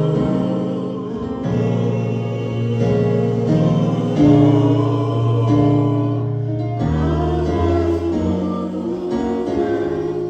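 Gospel music: voices singing over instrumental accompaniment, with held chords and a bass line that moves every second or two.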